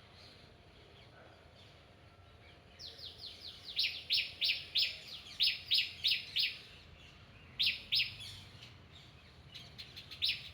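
A bird calling in a rapid series of sharp, downward-slurred chirps, about three a second, starting a few seconds in; it pauses briefly, gives two more, then a faster run near the end.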